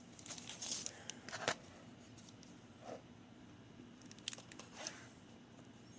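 Faint rustling and light clicks of a cardboard product box and its packing being handled while it is opened. The sounds come in scattered short bits, a cluster in the first second and a half and another around four to five seconds in.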